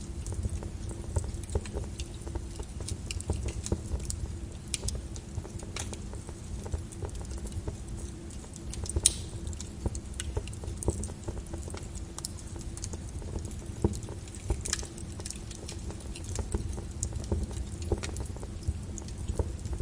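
Lava crackling and popping: many irregular sharp snaps over a steady low rumble, with a louder pop about nine seconds in.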